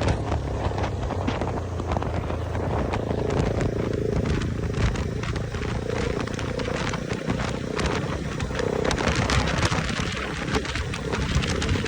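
Motorcycle running steadily while being ridden, with wind rushing and buffeting over the microphone.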